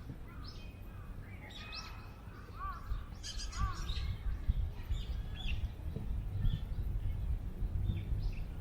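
Several small birds chirping and calling in quick short notes, with two arched calls near the middle, over a low wind rumble on the microphone that grows louder about three seconds in.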